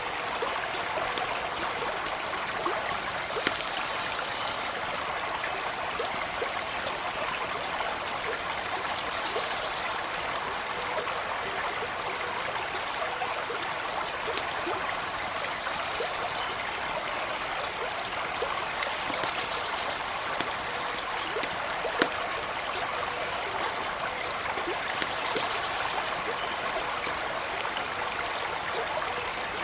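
A stream flowing steadily, with the scattered sharp pops and crackles of a campfire over it; the loudest crack comes about 22 seconds in.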